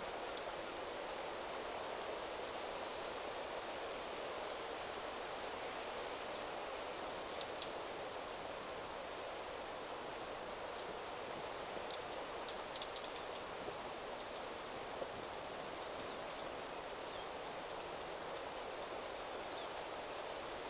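Wind rustling through forest trees as a steady hiss, with scattered short, high bird chirps and calls, thickest in a cluster around the middle.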